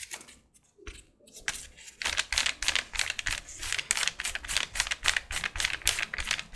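Rapid dabbing and rubbing strokes of a dye applicator on leather, about four to five a second, as golden brown leather dye is worked into a collar strap. A few separate taps come first, and the steady dabbing sets in about two seconds in.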